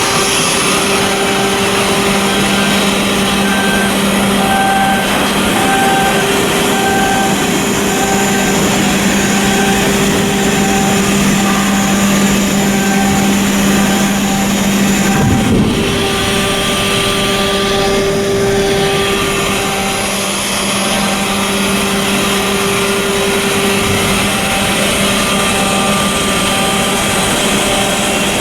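Loud, steady running of heavy machinery, with a constant hum and fainter tones higher up that pulse on and off about once a second; a brief change in the sound about halfway through.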